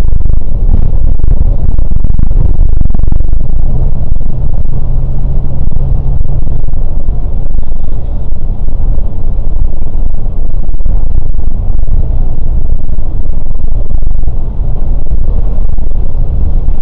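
Scania K410 coach on the move: a steady, loud low rumble of diesel engine and road noise.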